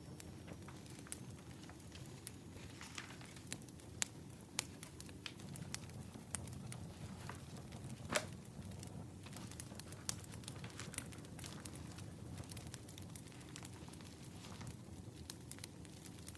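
Wood fire crackling: scattered sharp pops and snaps over a low steady rumble, the loudest pop about eight seconds in.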